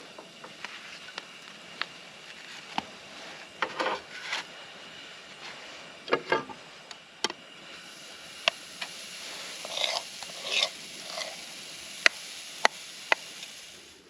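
Breakfast cooking in a pan: sharp clicks and several short scraping strokes of a utensil against the pan, over a steady low hiss.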